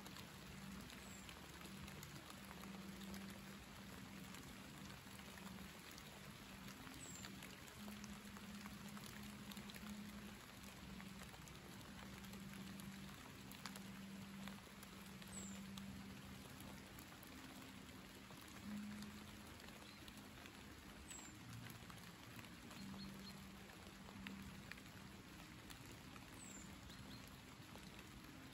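Faint light rain pattering on leaves, a soft steady hiss dotted with individual drop ticks. A low hum comes and goes underneath.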